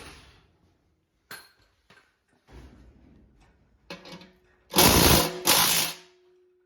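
Impact wrench hammering in two short bursts about half a second apart, near the end, taking the wheels off the race car, with a brief hum after the second burst. Earlier come a few sharp clicks and clatters of tools being handled.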